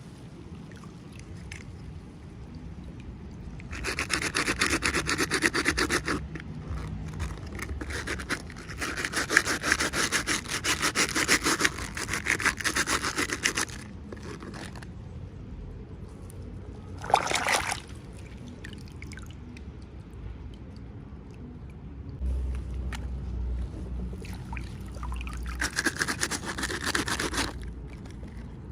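Packaging being opened by hand: several bursts of rubbing, scraping and rustling, each a second or a few seconds long, with quieter handling between them.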